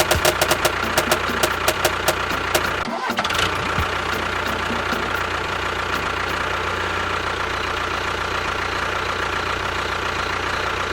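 Engine running at a steady idle, with a quick run of knocks at about five a second over the first two and a half seconds and a brief break about three seconds in.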